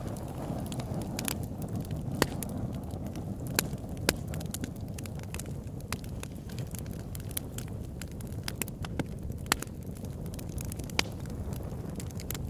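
Wood fire burning a large log in an oil-drum fire pit: a steady low rumble with frequent sharp crackles, and a few louder pops scattered through.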